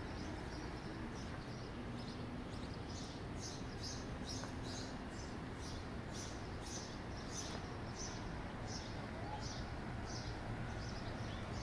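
A small bird chirping repeatedly, short high chirps about twice a second, over a steady low hum of city background noise.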